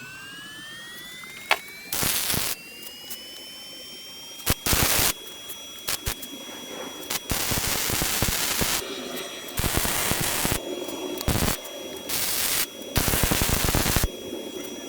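Arc welder laying practice beads in about seven short bursts of crackling, each a fraction of a second to about a second and a half long, with a few sharp clicks between them. A faint steady high whine runs underneath.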